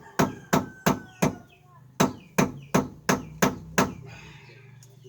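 Short breaker bar banged against something hard again and again, about eleven sharp metallic strikes in two quick runs with a brief pause between, to free a bar that seems jammed or broken.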